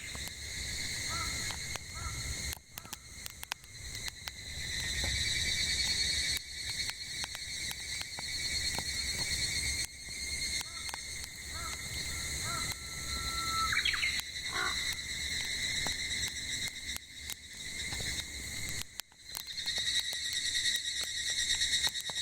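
Cicadas droning steadily over the crackle and sharp pops of burning firewood in a campfire. About two-thirds through, a bird gives a held whistled note that sweeps upward at the end.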